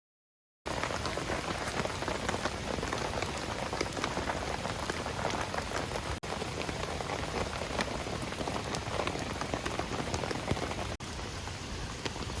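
Heavy rain, a downpour, with many individual drops striking close by. It starts abruptly about half a second in.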